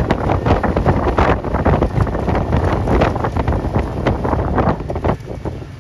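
Wind buffeting the microphone of a moving bus, in heavy irregular gusts over a low rumble of engine and road noise. The buffeting eases near the end.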